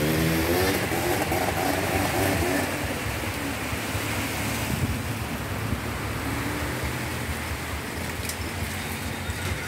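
Heavy rain pouring down onto a dirt road, an even hiss. For the first two or three seconds a wavering pitched drone rides over it, then fades.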